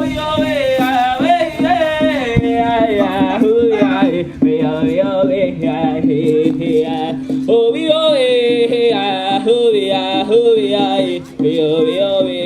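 A man singing a Native American heart song in wordless vocables: long, wavering melodic phrases over a steady low drone, with brief breaths about four and eleven seconds in.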